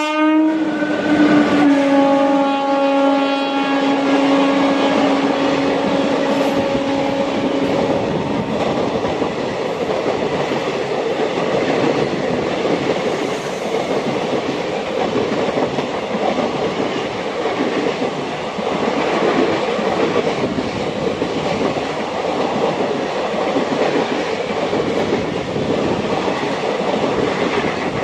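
A train horn sounds for about eight seconds, dipping slightly in pitch about a second in. Under it and after it runs the steady rumble and rattle of the electric MEMU train moving along the rails.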